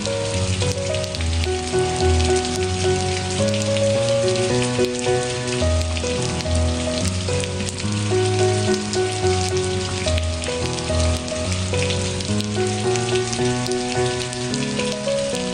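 Steady rain hiss with a patter of drops, mixed with slow instrumental relaxation music of held notes over a low bass line.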